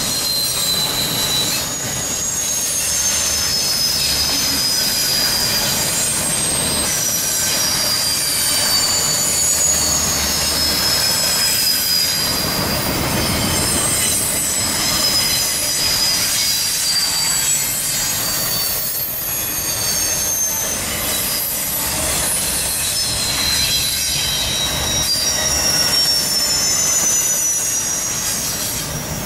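Freight train rolling past with its wheels squealing: several thin, high-pitched squeals that slide slowly down in pitch and overlap, over a steady rolling rumble.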